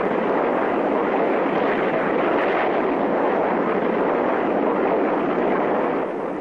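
Steady rushing roar of a jet fighter's engines in flight, even throughout and easing slightly near the end.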